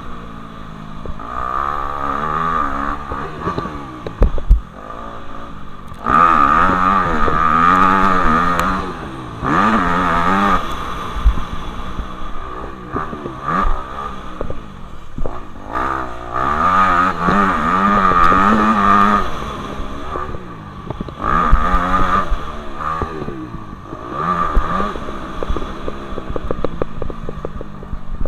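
Motocross bikes' engines revving hard, the pitch climbing and dropping again and again with throttle and gear changes, swelling loud in several passes and easing between them.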